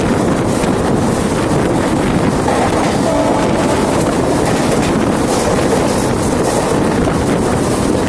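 Mumbai suburban electric local train running, heard from its open doorway: rushing air buffets the phone's microphone over the steady rumble of the moving train.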